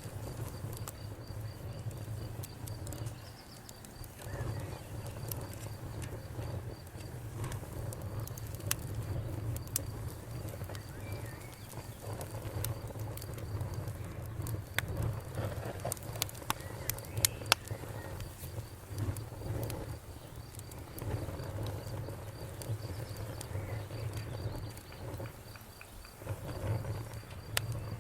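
Campfire crackling, with scattered sharp pops that are loudest in a cluster a little past halfway, over a low steady rumble. A faint, steady high insect trill sounds underneath.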